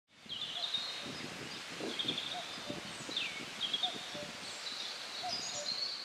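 Birds chirping in short repeated high phrases, with one falling whistle about three seconds in, over a steady background hiss.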